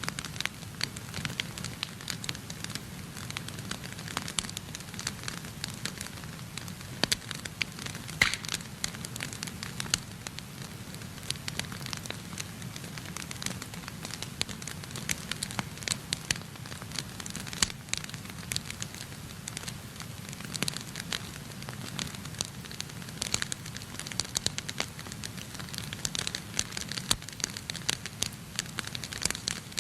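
Wood fire crackling steadily in a fireplace, with many irregular sharp pops and snaps over a soft low rumble of flames.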